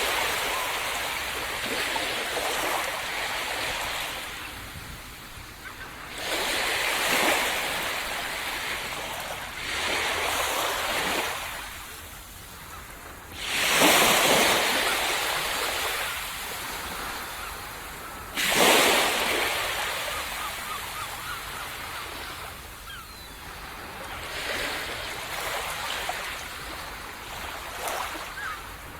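Ocean waves breaking on a sandy beach, one after another every few seconds. Each break is a sudden rush of surf that fades away as the water washes up and drains back.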